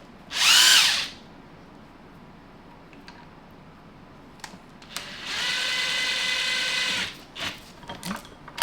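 Handheld power tool run in two bursts, turning the forcing screw of a three-jaw puller to draw the tail housing off an NV5600 transmission. The first is a short spin that rises and falls in pitch; about five seconds in comes a steady run of about a second and a half. A few light clicks follow near the end.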